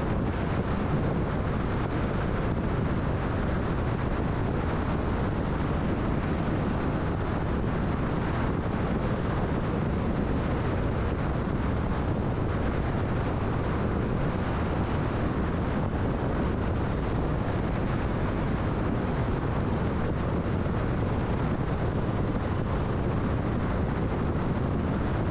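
Steady road and wind noise of a car cruising at freeway speed: an even, unbroken rushing with no engine note or other events standing out.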